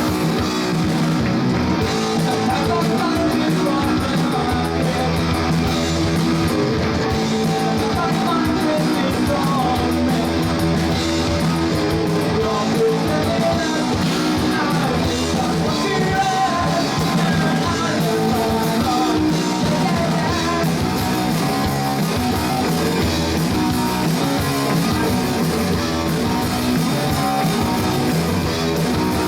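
A live rock band playing: electric guitars over bass and drums, with singing.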